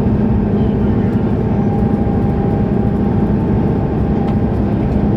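Mercedes-Benz O530 Citaro Ü city bus, its diesel engine and drivetrain running with a steady low hum at a constant pitch.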